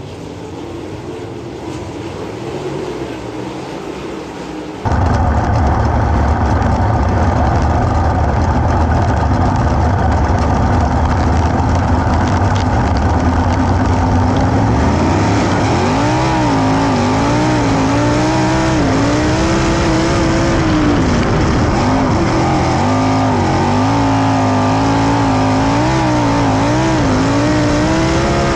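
410 sprint car engines running hard in racing: quieter for the first few seconds, then abruptly much louder, with the engine pitch rising and falling over and over from about halfway through as the throttle is opened and lifted.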